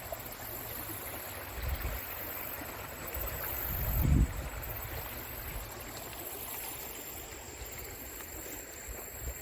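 Creek water running steadily over the streambed. A low rumbling thump swells and peaks about four seconds in.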